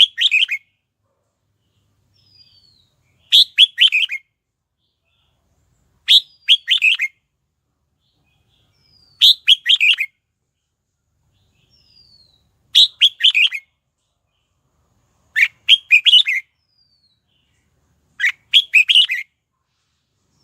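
Red-whiskered bulbul singing a short, quick phrase of several notes, repeated about every three seconds (seven times), each phrase led by a faint falling whistle.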